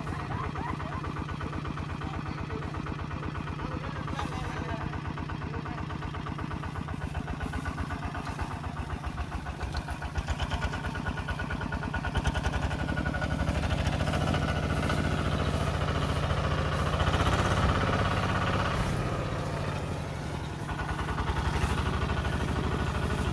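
Tractor engine running with a fast, even chugging, working harder from about halfway through, revs and loudness rising, then easing off again near the end.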